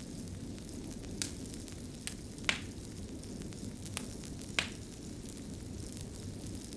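Fire crackling: a low steady rush of flames with a handful of sharp, separate pops, the loudest two about two and a half and four and a half seconds in.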